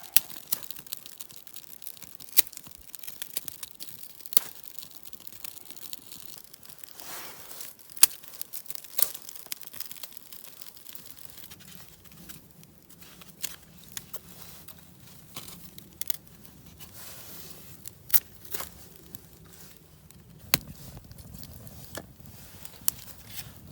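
Small wood campfire crackling, with sharp irregular pops and snaps of wet wood burning.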